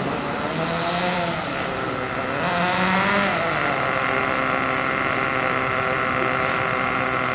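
Small single-cylinder engine of a model IC-engine car running, revved up and back down twice in the first few seconds, the second rev the louder, then holding at a steady speed.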